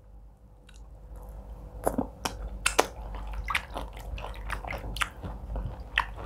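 Close-up mouth sounds of a person chewing a handful of egusi soup. Starting about a second in, there are irregular sharp clicks and smacks of chewing, several a second.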